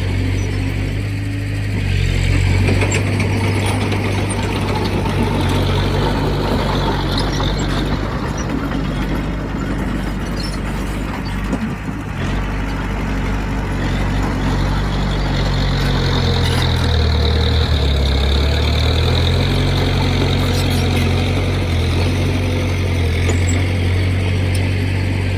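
Diesel engine of heavy earthmoving machinery running steadily under work, its pitch dropping for a couple of seconds past the middle and then coming back up.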